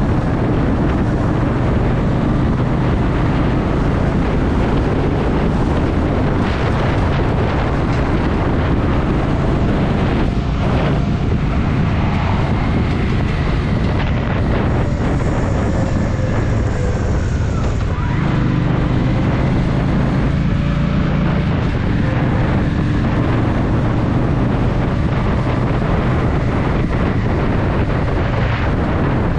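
Honda Shadow VT750's V-twin engine running while riding, with wind buffeting the microphone; the engine note changes a little past halfway.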